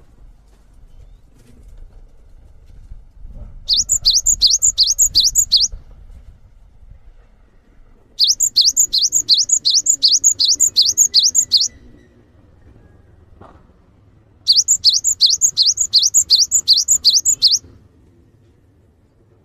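Songbird song from a masteran (bird-song tutor) recording: three bouts of rapid, high, downslurred notes, about four a second, each bout two to three and a half seconds long.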